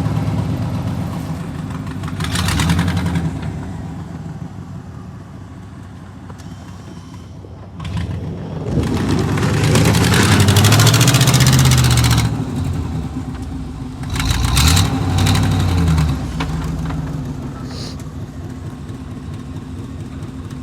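A vehicle engine driving in snow, revving up and dropping back in several surges, the longest and loudest about halfway through, with lower running in between.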